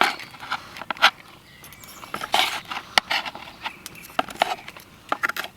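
Irregular sharp clicks and a short scrape from a utensil working at food in a frying pan, cutting into a fried egg and chips.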